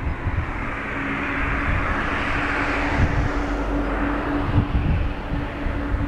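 Boeing 777-200's jet engines running at low power, a steady whine under a hiss that swells for a few seconds and then eases, with wind buffeting the microphone.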